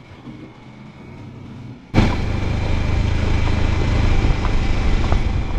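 Motorcycle engine running quietly. About two seconds in, the sound jumps abruptly to much louder, steady engine and rushing road noise that carries on.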